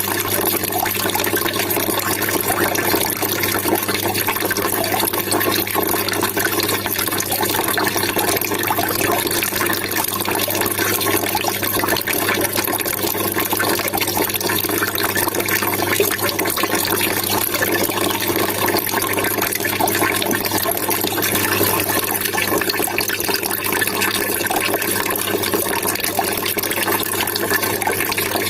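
Water trickling and splashing in a steady, unbroken stream.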